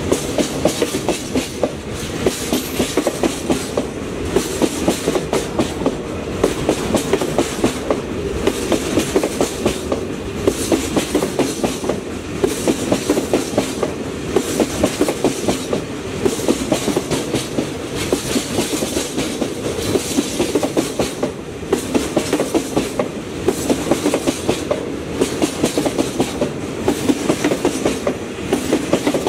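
Wheels of a long freight train of mostly empty container flatcars rolling past at speed, clattering over the rail joints in a steady clickety-clack with a constant rumble underneath.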